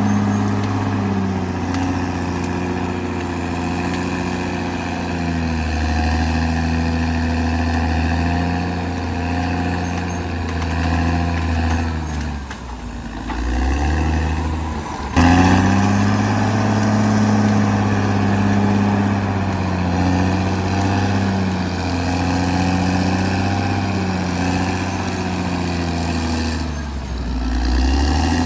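Caterpillar D6R XL bulldozer's diesel engine running steadily, its pitch sagging and recovering about 13 seconds in and again near the end. The loudness jumps suddenly about 15 seconds in.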